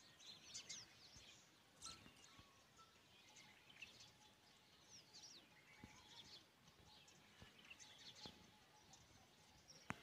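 Faint chirping and twittering of small birds: many short, high calls and quick up-and-down whistles scattered throughout, with a few soft clicks.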